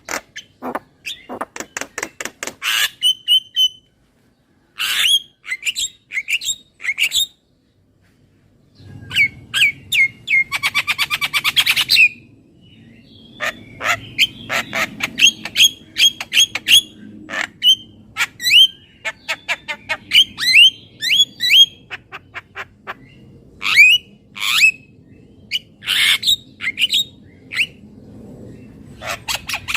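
Javan myna calling: a busy series of short, harsh squawks and chirps, with a long run of rapid rattling notes about a third of the way in.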